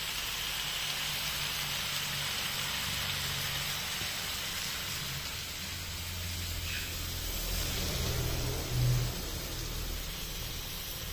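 Chicken pieces and vegetables sizzling in a hot wok while coconut milk is poured in: a steady hiss with a low hum underneath, and a brief dull bump about nine seconds in.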